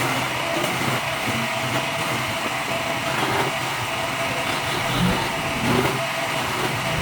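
A woodworking machine's electric motor running steadily with a constant hum, as the table leg is shaped.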